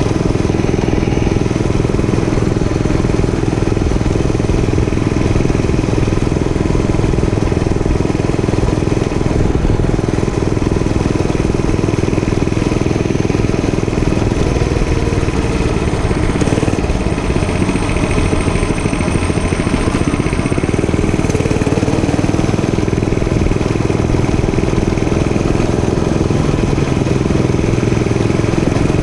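Dirt bike engine running steadily under way.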